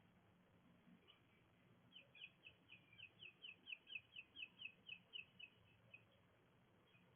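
A songbird singing a faint, even series of about fifteen short down-slurred whistled notes, about four a second, lasting some four seconds.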